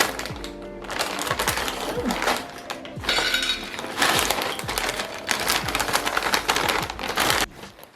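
Plastic snack packet crinkling and crackling in bursts as it is handled and torn open, stopping suddenly near the end.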